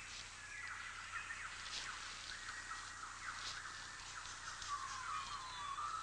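Birds chirping and twittering in a steady chatter of short calls, with a few faint clicks.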